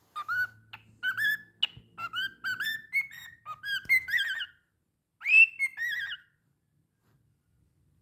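Cockatiel whistling a quick series of short, mostly rising notes mixed with a few sharp clicks, pausing briefly about two-thirds through, then one louder note and a few more before it stops.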